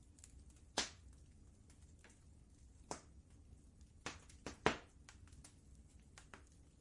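Wood fire crackling in a fireplace: a faint run of small ticks with a few sharp pops, five louder ones, the loudest near the middle, over a low steady hum.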